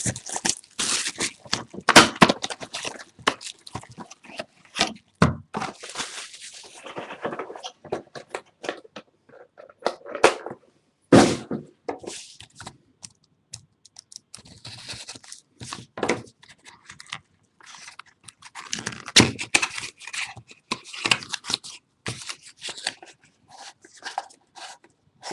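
Hands opening a sealed trading-card box: plastic wrap tearing and crinkling, cardboard crunching and scraping, with irregular clicks and knocks as the box and cards are handled.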